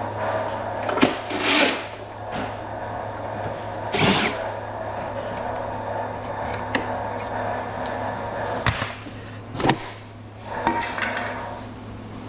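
Tools working on an old air conditioner's casing to take it apart: scattered clanks, clicks and short scrapes, about seven of them, over a steady low hum.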